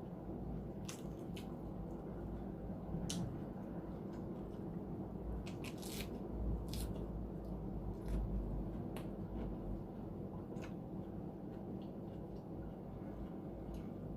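Close-miked chewing and wet mouth sounds, with irregular sharp smacks and clicks.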